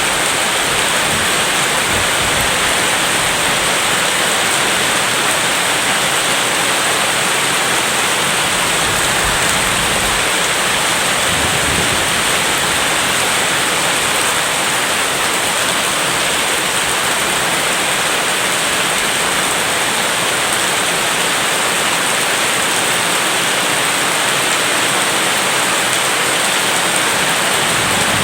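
Steady rain falling, an even hiss without break. No thunder and no crackles stand out.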